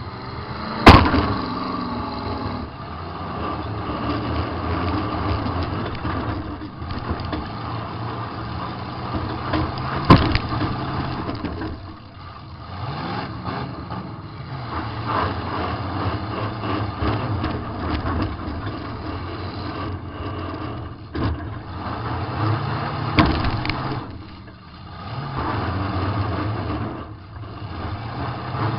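Demolition derby car's engine running and revving up and down, heard from inside the car. Sharp crash impacts come about a second in, around ten seconds in, and again a little past twenty seconds, the first the loudest.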